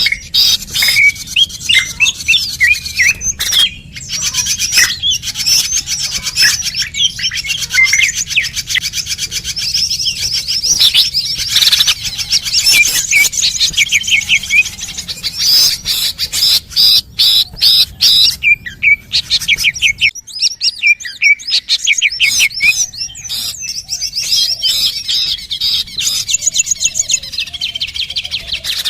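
Small songbirds chirping and trilling in a fast, dense chatter of high notes, a recorded bird-lure call used by trappers to draw wild birds in.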